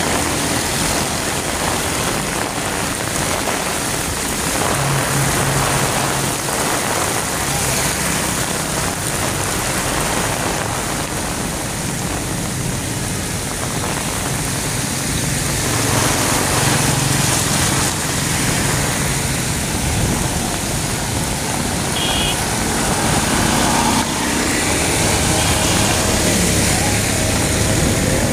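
Heavy rain pouring onto a street, a steady hiss. Engines of passing motorbikes and vehicles rise and fall under it a few times.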